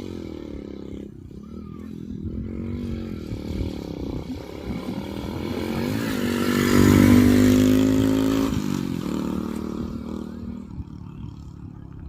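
Motorcycle engine being ridden, revving up and down. It builds to its loudest and highest pitch a little past halfway, then eases off.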